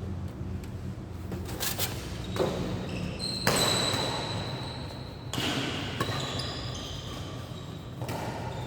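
A badminton rally: rackets strike the shuttlecock in a series of sharp hits at irregular intervals, the loudest about three and a half seconds in, over a steady low hum.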